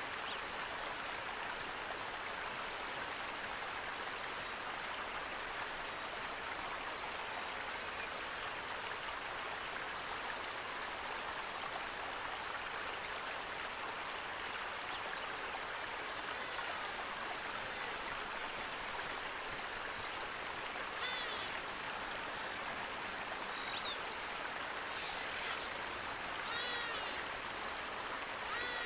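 Steady rush of running water. A few short bird chirps come through it in the last third.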